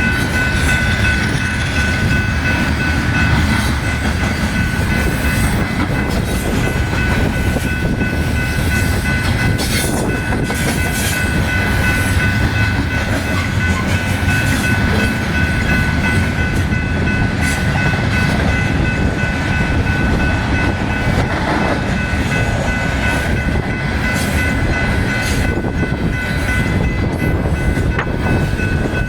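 Loaded grain train's covered hopper cars rolling steadily past, a heavy rumble with repeated clicks of wheels over rail joints. A steady high squeal of wheels against the rails sounds through the first half and fades out past the middle.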